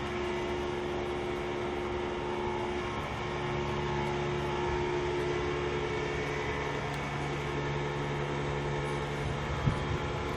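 Steady hum of running machinery with a few steady tones, a low one growing stronger about three seconds in; one short knock near the end.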